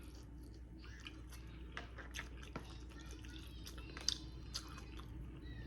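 Close-up eating sounds: wet chewing and lip smacking with scattered small clicks, a couple of sharper smacks about four seconds in.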